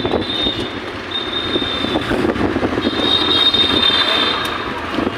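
Steady, loud background din like traffic noise, with a thin high steady whine that comes and goes three times.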